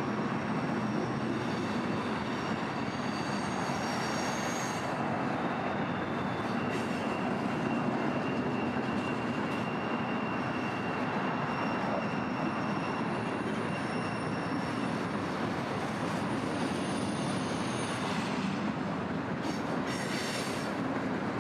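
Freight train boxcars rolling past with a steady rumble of steel wheels on rail. Thin high-pitched wheel squeals come and go throughout, with a brief sharper squeal near the end.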